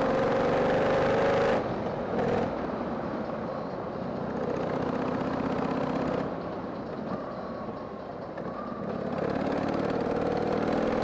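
Harley-Davidson Sportster 883's air-cooled V-twin running under way. Its pitch rises as it pulls, drops when the throttle comes off about a second and a half in, and climbs again near the end, over wind and wet-road tyre noise.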